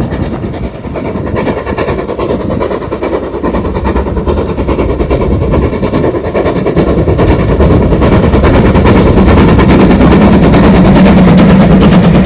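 Steam locomotive working a train, its rapid exhaust beats and running gear getting steadily louder as it approaches.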